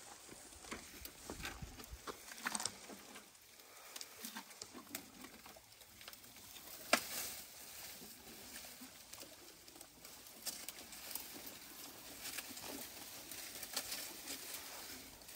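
Dry twigs and leaves crackling and snapping in irregular clicks, with one sharper snap about seven seconds in.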